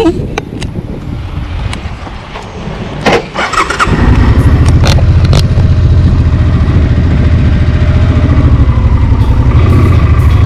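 A few clicks and handling noises, then about four seconds in a motorcycle engine starts and settles into a loud, steady, low idle.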